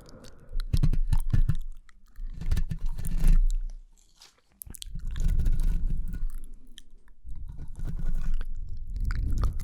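Close-miked ASMR mouth sounds: quick, dense clicks and smacks of lips and tongue. They come in three bursts, with a brief near-silent break about four seconds in.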